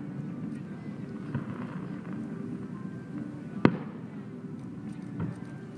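Fireworks shells bursting at a distance: one sharp bang a little past halfway and a couple of fainter pops, over faint music from the show.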